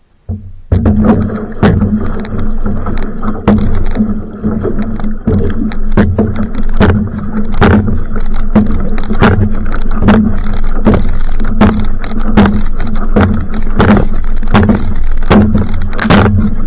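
Outrigger canoe (va'a) paddled hard at sprint pace: water rushing past the hull with repeated sharp splashes and knocks from the paddle strokes. It starts suddenly about a second in and stays loud.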